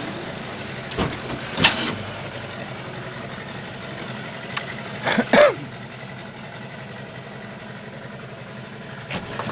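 Small boat's outboard motor idling steadily, with a few brief louder sounds on top, the loudest a pair about five seconds in.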